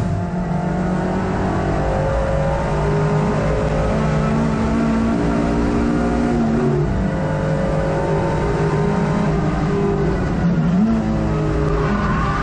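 Hot hatch race car's engine at race pace, heard from inside the cabin, with road and wind noise. The note holds high, drops about seven seconds in and climbs again near eleven seconds.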